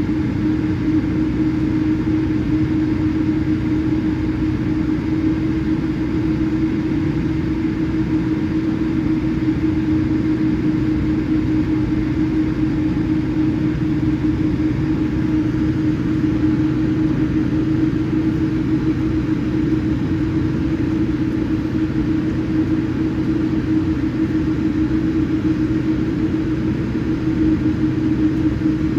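Steady engine and air-system drone inside a Boeing 787-8 cabin, with a constant low hum over an even rush; the level and pitch stay the same throughout.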